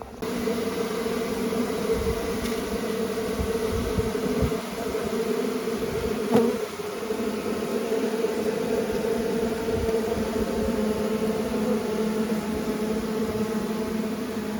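A honeybee colony buzzing: a steady, dense hum of many bees around the opened hive. There is one brief knock about six seconds in.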